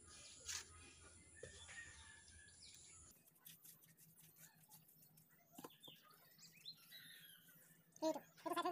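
Faint bird chirps, scattered and brief, over a quiet outdoor background.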